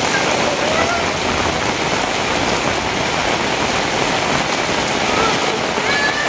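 Heavy rain falling steadily on surfaces: a dense, even hiss with no breaks. A few short, faint high chirps sound over it.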